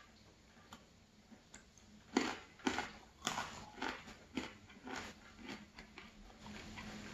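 Close-miked chewing of crusty bread, a run of crisp crunches about two a second that starts about two seconds in and fades out.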